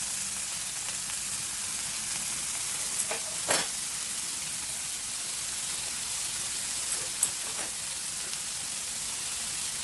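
Food sizzling steadily in hot fat on a grill pan, with a few short clicks about a third of the way in and again about two thirds in.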